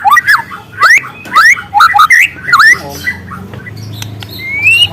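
Juvenile white-rumped shama singing a string of short, sharply rising whistled notes, several a second. A low steady hum joins in about halfway through.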